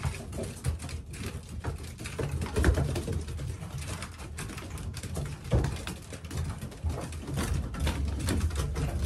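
Racing pigeons cooing in a loft, with scattered light knocks and rustles from birds moving about.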